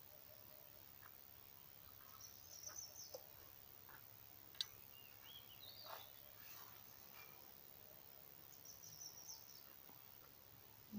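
Faint birdsong over quiet background hiss: two short high twittering phrases several seconds apart, with a rising and falling call between them. There are a few soft clicks, and one sharp click about halfway through.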